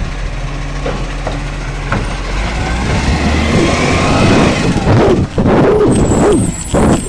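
Garbage truck engine running, with a rising whine a little before halfway as it revs, then louder, uneven surges of mechanical noise in the second half.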